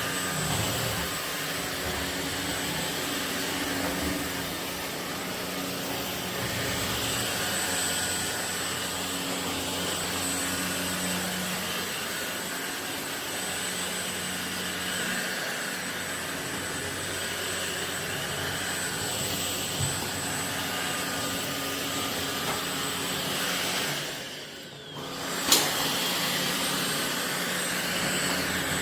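Ultenic U16 Flex cordless stick vacuum running steadily, its motor noise carrying a thin high-pitched whine. Near the end the sound briefly drops away, and a sharp click comes as it resumes.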